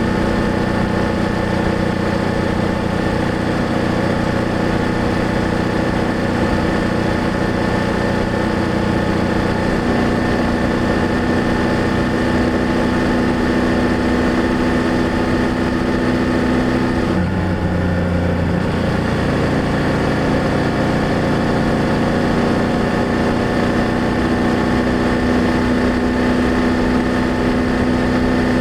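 BMW F800GS parallel-twin motorcycle engine running steadily under way, heard from the rider's position. The engine note breaks off briefly about seventeen seconds in, then carries on.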